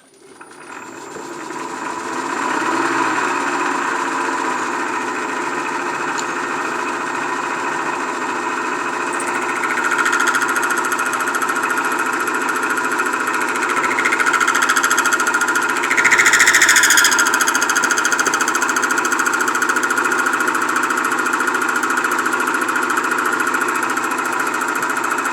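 Metal lathe spinning up and running steadily, a machine hum with gear noise, while a high-speed steel cutter is fed into the turning lead screw shaft. The sound grows louder and harsher about ten seconds in and again around fifteen to seventeen seconds in, as the tool cuts.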